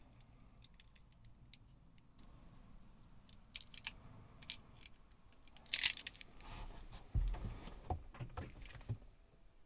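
Small handling noises: scattered sharp clicks and light rattles, growing busier, with a dull thump about seven seconds in followed by a few more knocks.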